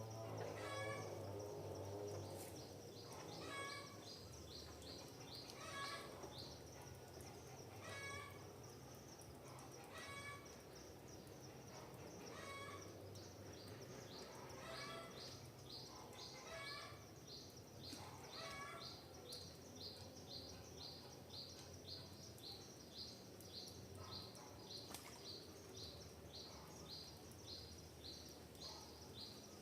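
Forest birds calling faintly: one bird repeats a short call about every two seconds, and from about halfway in another gives a quick run of short high chirps, about two a second. Behind them runs a steady high-pitched hiss and a low hum.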